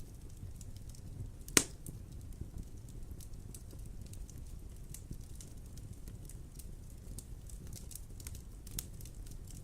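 Wood fire burning in a fireplace: a steady low rumble with scattered small crackles, and one loud sharp pop about one and a half seconds in.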